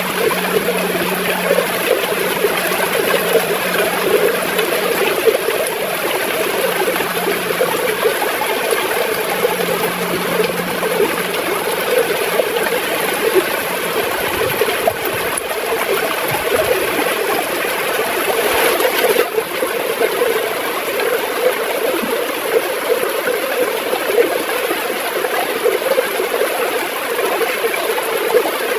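River water flowing and gurgling steadily over stones, an even, unbroken rush of water.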